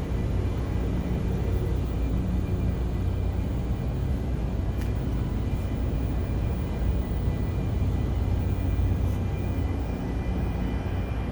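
Steady low rumble of a cruise ship's open-deck ambience, with faint steady tones above it and a few soft ticks.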